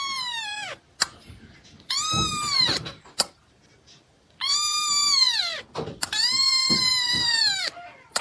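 A cat meowing four times in long, drawn-out meows, each falling in pitch at the end, with two short clicks between the first calls.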